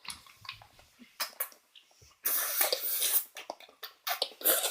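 Close-up breathing and mouth noises from people sucking on hard candy, with scattered small clicks. A longer hissing breath comes about two seconds in and another near the end.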